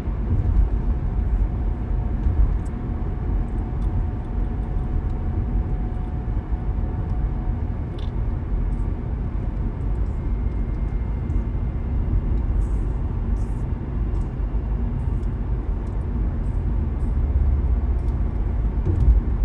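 Car driving on the road: a steady low rumble of road and tyre noise with engine hum, and a faint thin whine.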